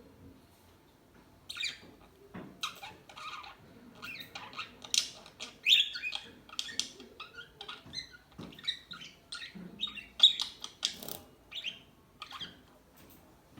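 Pet budgerigars chirping and squawking in a quick, irregular run of short, sharp calls. The calls start about a second and a half in and trail off near the end.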